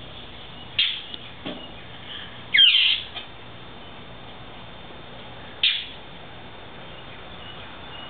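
A bird calls three times in short, sudden bursts: about a second in, just under three seconds in (the loudest, sweeping down in pitch), and at about six seconds. These are the calls of a bird that keeps dive-bombing a dog, which the owner takes to be protecting a nest.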